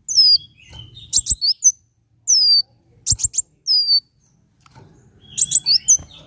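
A kolibri wulung sunbird singing a repeated phrase several times: a high falling whistle, then a quick run of sharp ticks and short rising chirps.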